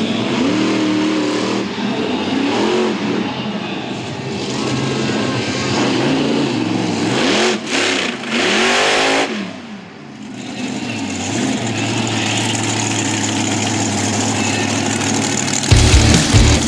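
Monster truck engines revving, the pitch rising and falling again and again, with a loud rise and fall about eight seconds in, then running more steadily. Heavy music with a pounding beat comes in near the end.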